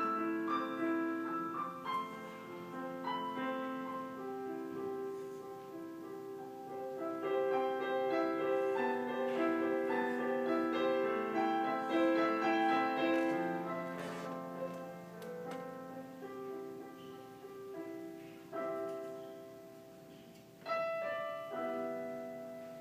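Solo piano playing a gentle classical-style piece over an Alberti bass, a left hand rocking through broken chords under a right-hand melody. It swells in the middle, then softens, with two fresh chords struck near the end.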